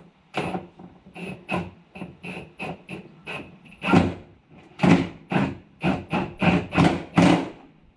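A hand tool working a transmission bellhousing bolt: a series of sharp metallic strokes, two to three a second, many with a faint ringing ping, heaviest in the second half.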